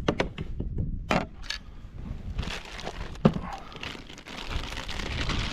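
Scattered sharp knocks and clicks, the loudest about three seconds in, with a rushing noise through the second half.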